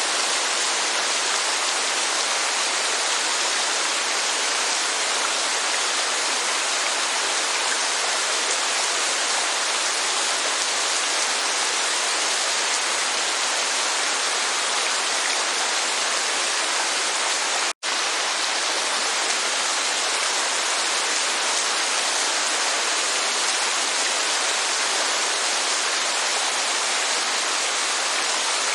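Steady rain mixed with falling water from a waterfall, an even dense hiss. It cuts out for an instant about two-thirds of the way through, then resumes.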